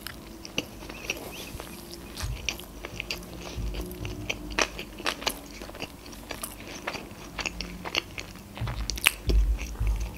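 Close-up chewing of a mouthful of sushi roll with the mouth closed: many small, sharp mouth clicks and crunches at an uneven pace.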